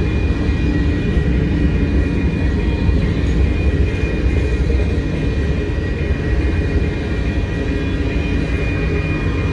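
Freight train of covered hopper cars rolling past close by: a steady low rumble of steel wheels on the rails, with a thin high tone held above it.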